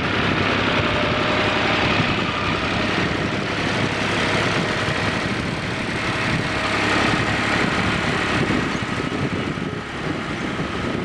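New Holland Al Ghazi tractor's diesel engine running steadily.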